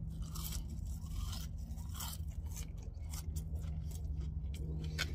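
A person chewing a mouthful of crisp-fried french fry, with soft irregular crunches, over a steady low hum.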